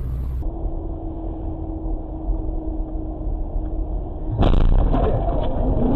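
Car road and engine rumble as picked up by a dashcam, with a faint steady hum in the middle and a sudden louder stretch of rumble from about four seconds in.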